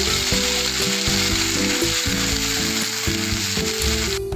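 Wet onion, ginger, garlic and coriander paste sizzling as it fries in hot oil in a nonstick kadhai, stirred with a spatula. Low background music runs underneath.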